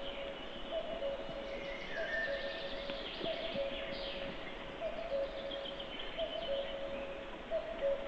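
Forest birdsong: a low two-note call repeats about once a second, with higher songbird phrases over it.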